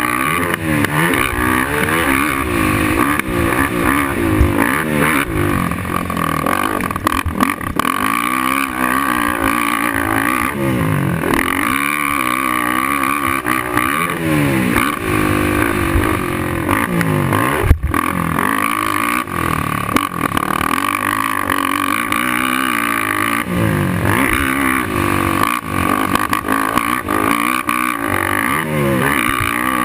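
Suzuki LT-R450 quad's single-cylinder four-stroke engine revving up and down over and over, its pitch climbing and dropping every second or so as it is ridden hard. A sharp knock comes about two-thirds of the way through.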